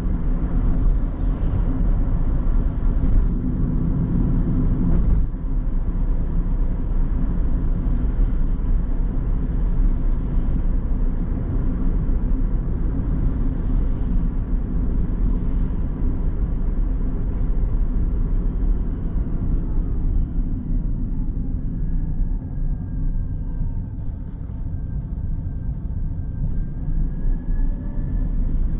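Car driving on a road: a steady low rumble of road and engine noise, a little quieter in the last third. There are a few light clicks early on and a faint thin whine near the end.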